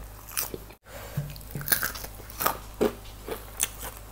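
Close-miked chewing of a mouthful of crispy baked chicken wing and lettuce: irregular sharp crunches and wet mouth smacks, roughly two a second. The sound cuts out completely for an instant just under a second in.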